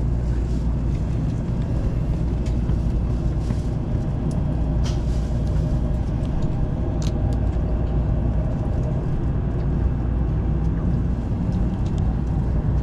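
Steady low rumble of a Sanyo Shinkansen Sakura bullet train running, heard from inside a passenger car, with a few faint ticks.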